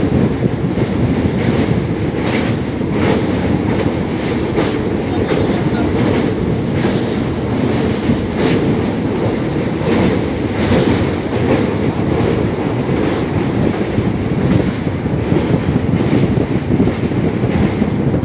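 Passenger train running at speed, heard from an open coach doorway: a steady rumble of wheels on rail with repeated clickety-clack as the wheels cross rail joints, about one or two clicks a second.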